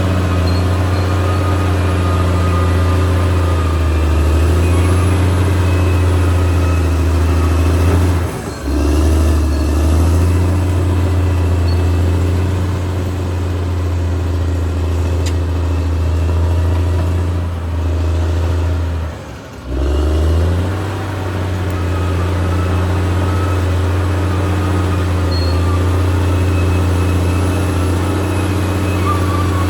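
Caterpillar D6R XL bulldozer's diesel engine running steadily under working load. The sound dips sharply for a moment twice, about a third and about two-thirds of the way through, and comes back each time.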